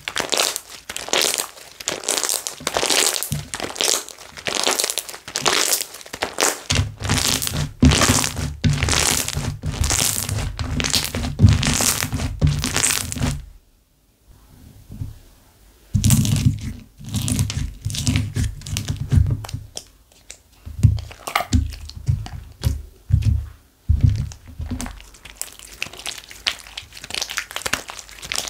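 Slime being squished and pressed by hand: repeated crackling, crunching squeezes as air pockets in the slime pop. Deeper thuds run under the presses for stretches, with a short pause about halfway through.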